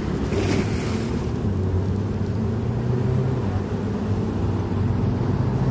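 Steady low engine-like drone from a motor, with a brief noisy rush about half a second in.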